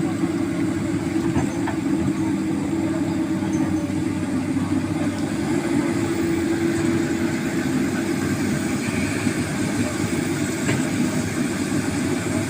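Heavy diesel machinery engine running steadily, a constant low drone that neither revs up nor dies away.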